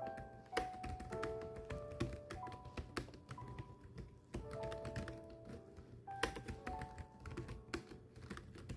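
Steady typing: keys clicking fast and irregularly, several strokes a second, over background music with a slow melody of held notes.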